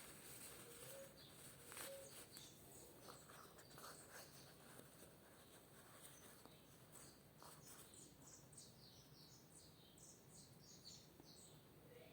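Near silence with faint bird chirps: a run of short, high calls in the second half.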